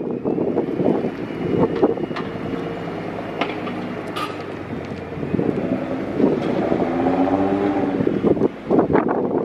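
Car engines running at a car meet, with one engine revving up about two-thirds of the way through; wind on the microphone.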